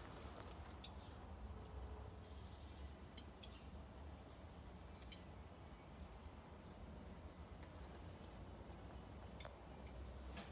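A small bird repeating one short, high chirp over and over, about one and a half times a second, over a faint low rumble.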